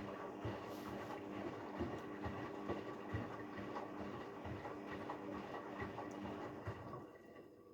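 Haier 7.5 kg washing machine running a delicate wash cycle: a steady motor hum with irregular soft knocks as the drum turns, which stops about seven seconds in.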